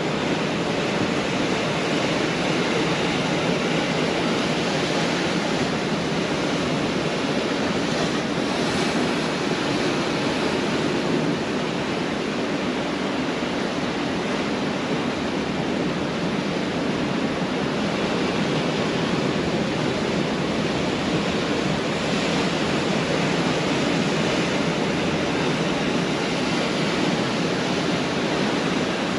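Pacific Ocean surf breaking on a beach: a continuous wash of waves with only gentle rises and falls in level.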